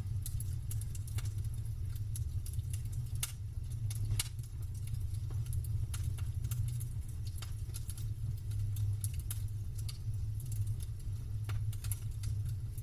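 Campfire crackling: burning wood giving off frequent irregular sharp pops and snaps over a steady low rumble.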